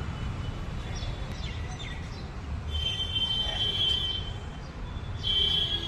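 Wind rumbling on the microphone, with a few short, high falling chirps and a steady high-pitched whine that comes in twice.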